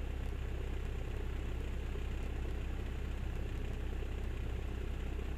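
A 1976 Cessna 172M's four-cylinder Lycoming O-320 engine idling steadily, with its propeller turning, while the aircraft holds short of the runway.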